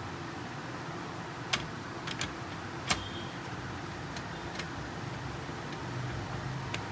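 Scattered short, sharp clicks and taps of hand tools and plastic and metal parts being handled while a laser printer is put back together, the loudest about three seconds in, over a steady low background rumble.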